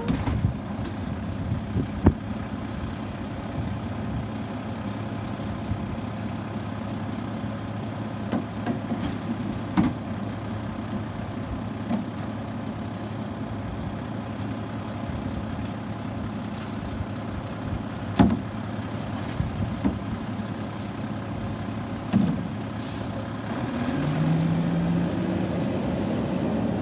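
Garbage truck engine running steadily, with a few sharp clanks and a faint high whine; the engine gets louder and its note rises near the end.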